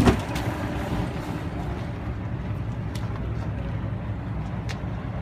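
Detroit DD15 diesel engine of a Freightliner Cascadia truck idling with a steady low rumble, with a sharp knock right at the start and a couple of faint clicks later.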